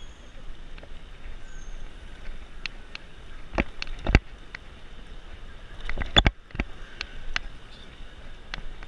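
Bicycle riding noise picked up by a handlebar-mounted camera: steady wind and tyre hiss with scattered sharp knocks and rattles from the bike over the road, the loudest a few seconds in and again about six seconds in.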